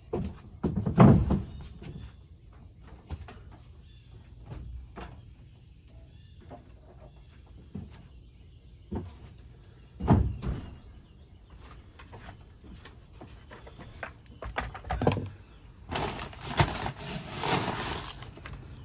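Bird seed and its bag being handled: a few dull thumps, then a few seconds of dense rustling near the end.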